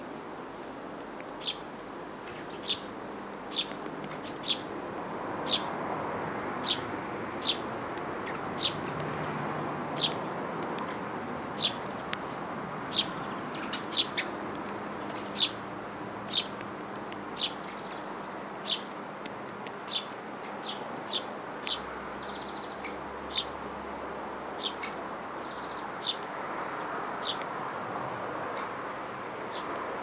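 Short, sharp bird calls repeated about once a second over a steady background hiss.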